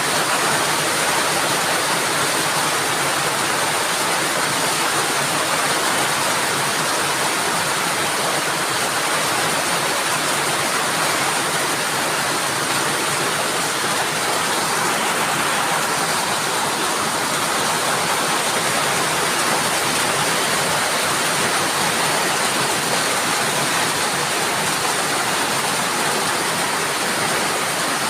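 Heavy rain falling, a loud, steady, dense hiss that stays even throughout.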